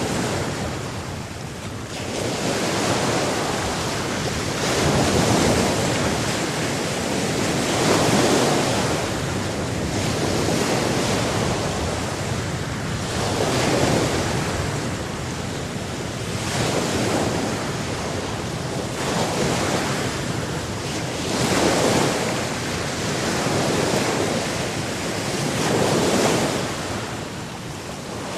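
Sea surf: waves breaking and washing in, swelling and falling back about every two to three seconds over a steady rush of water.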